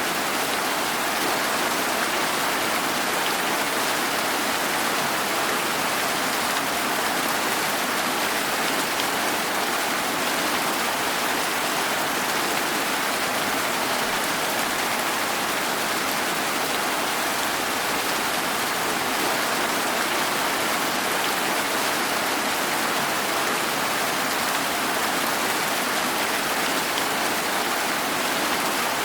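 Steady, even rainfall, a dense hiss of rain falling on surfaces outside, with no single drops or gusts standing out.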